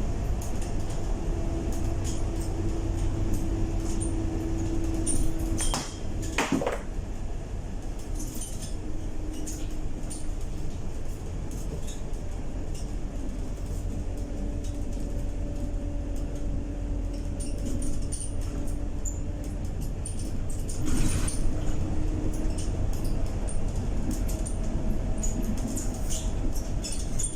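Cabin sound of a Scania K230UB city bus with a ZF 6HP504C automatic gearbox under way: a steady low engine drone with a humming tone that comes and goes, and a couple of short rattles, about six seconds in and again near the end.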